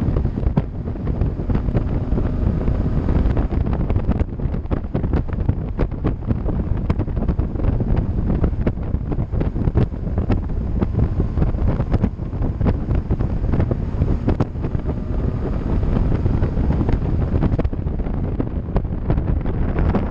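Wind buffeting the microphone of a camera carried on a moving bicycle, a steady low rumble, with frequent small knocks and rattles from the ride over the road surface.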